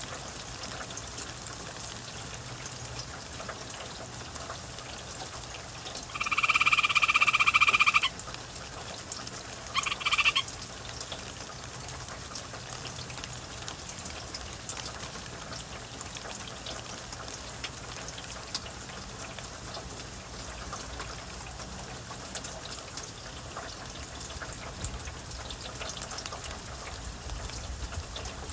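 Gray treefrog giving one loud trilled call about two seconds long, then a short second trill, over steady rain.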